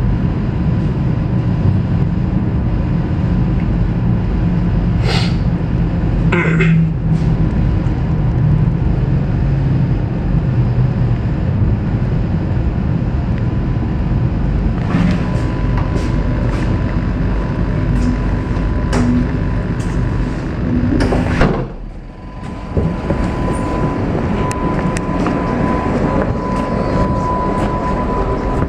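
Steady rumble inside the door vestibule of an NS VIRM double-deck electric train, with short air hisses about five and six seconds in. About twenty-one seconds in the sliding door opens with a loud hiss, the rumble drops away, and a steady high tone follows.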